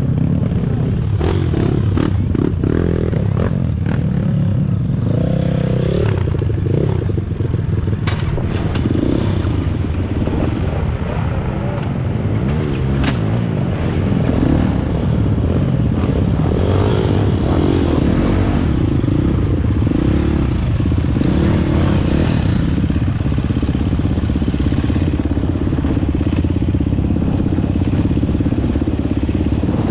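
Dirt bike engine running under way, its revs rising and falling, with clatter and sharp knocks from the bike.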